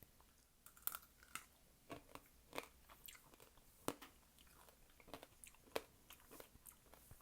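Close-up biting and chewing of candied fruit with a hard sugar shell: irregular sharp crunches as the glassy coating cracks, the loudest about a second in and about four seconds in.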